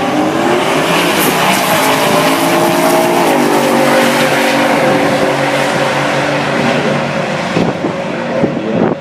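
Drag-racing V8 engines, a Ford 400 cubic inch Windsor and a 383 Chevrolet, launching and running hard down the strip. The pitch rises from the start, drops at a gear change about three seconds in, then holds at high revs before fading near the end.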